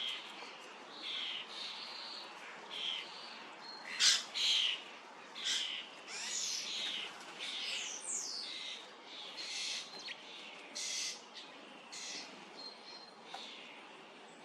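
Common starlings calling: a busy run of short, harsh, rasping calls one after another, with a few thin whistled notes.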